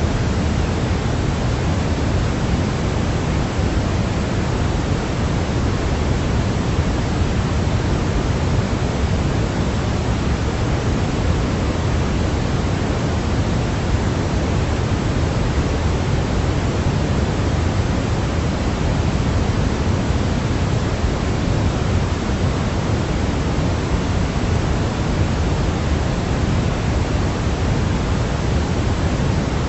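Steady synthetic noise played as a baby sleep aid: an even, unchanging hiss weighted toward the low end, closer to pink noise than to pure white noise.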